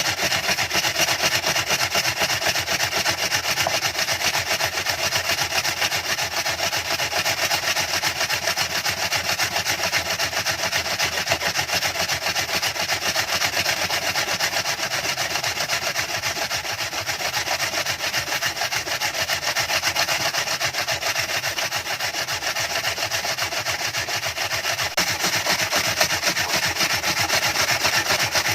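A continuous rasping scrape, like a saw working through wood, keeping on without a pause.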